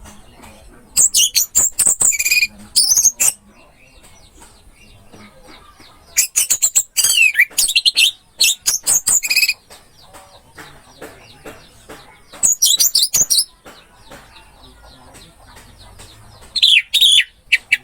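Orange-headed thrush (anis merah) singing in four high, rapid phrases of sliding whistles and clicks, with short pauses between them.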